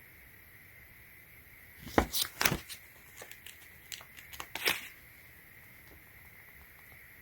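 Packaging being handled: a burst of rustling, crinkling and sharp clicks starting about two seconds in and lasting some three seconds.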